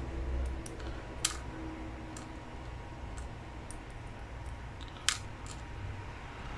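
Small sharp clicks and ticks of a screwdriver and screws on the plastic housing of a FLIR C2 thermal camera being screwed back together, with two louder clicks, about a second in and about five seconds in, over a low steady hum.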